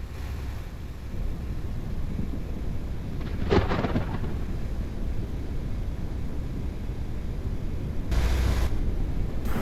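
Low, steady rumble of a thunderstorm, with a brief sharp crack about three and a half seconds in and a short burst of hiss near the end.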